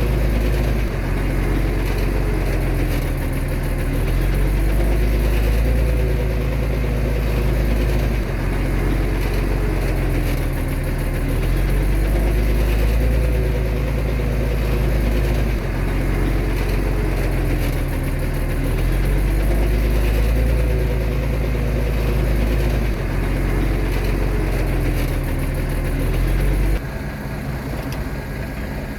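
Bulldozer's heavy diesel engine running and working under changing load, its low rumble shifting every few seconds, with a wavering whine over it; it drops quieter near the end.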